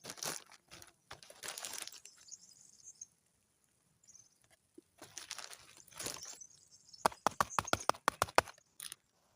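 Rustling and crinkling handling noise from preparing food by hand, then a quick run of sharp clicks or taps lasting about a second and a half near the end.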